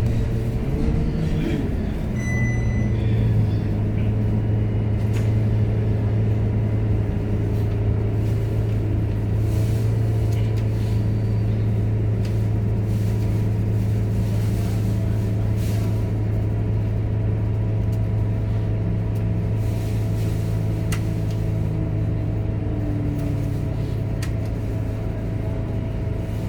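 Scania K230UB diesel city bus heard from on board, its engine and drivetrain giving a steady low drone as the bus drives along. The engine note shifts in the first couple of seconds, then holds steady, with a brief high beep about two seconds in.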